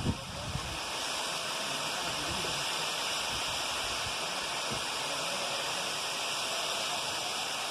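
Steady, even rush of a tall waterfall, water dropping nearly 100 m in free fall.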